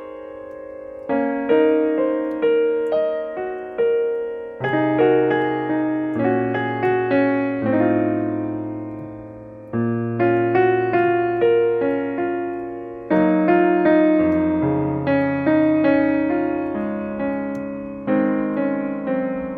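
Background piano music: a gentle melody over chords, with struck notes fading away and phrases starting again every second or so.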